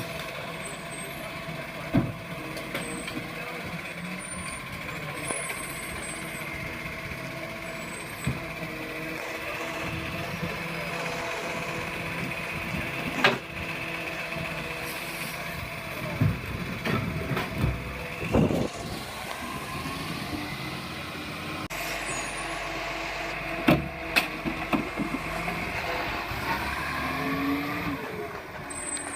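Heavy truck running steadily, with a few sharp clanks about 2, 13 and 24 seconds in.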